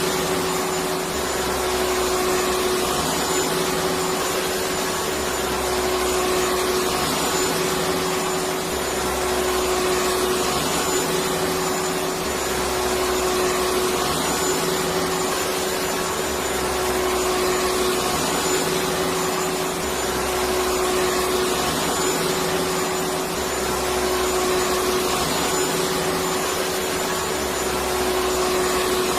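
Electric vacuum cleaner running steadily: a continuous rushing hiss with a steady hum, and a faint low swell that comes back about every two seconds.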